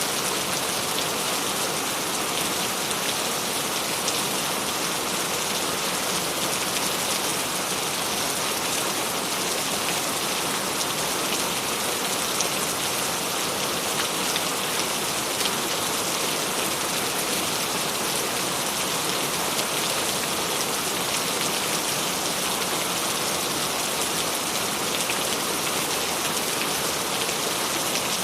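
Steady rain falling on a surface, an even hiss of many small drops with fine patter.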